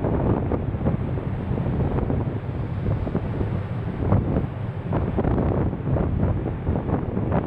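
Wind buffeting the camera's microphone: a low, rumbling rush that rises and falls in gusts.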